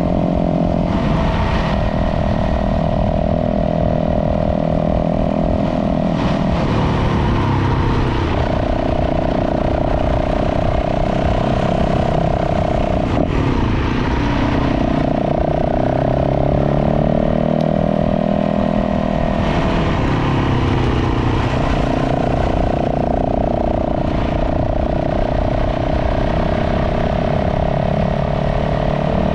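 Dirt bike engine running on a trail ride, holding a steady note that drops and picks back up about every five or six seconds as the throttle and gears change.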